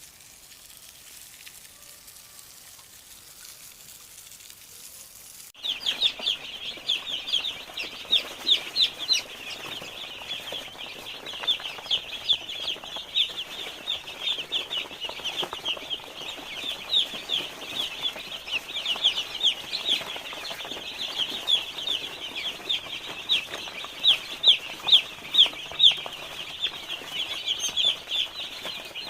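A flock of day-old broiler chicks peeping, many rapid high cheeps overlapping into a continuous chorus. For about the first five seconds there is only a faint hiss; the peeping starts abruptly after that.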